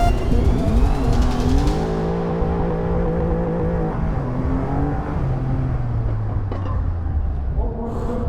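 Motorcycle engine running hard: its pitch rises about a second in, holds, then drops in steps over the next few seconds.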